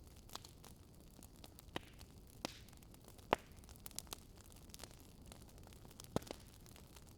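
Wood fire crackling in a fireplace: a soft steady hiss with scattered sharp pops, the loudest about three seconds in and a quick pair near the end.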